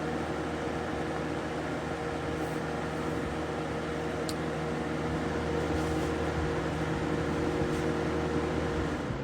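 1990s Windmere box fan running after a clean and service: a steady rush of air over an even motor hum. Near the end the hum cuts out and the air noise begins to fade as the blades wind down.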